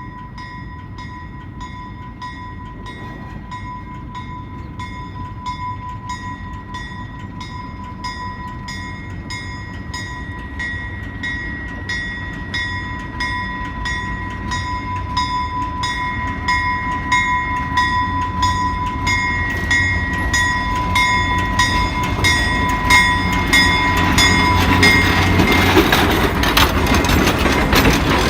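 ALCO S-6 diesel switcher locomotive approaching, its engine rumble growing steadily louder and loudest near the end, while a bell rings in even strokes about twice a second.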